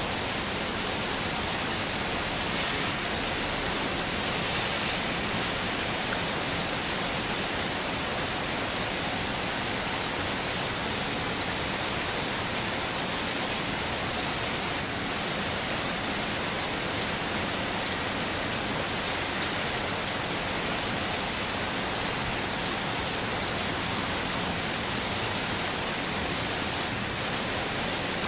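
Heavy rain falling steadily, an even hiss with no thunder. The sound dips for a split second three times, about twelve seconds apart.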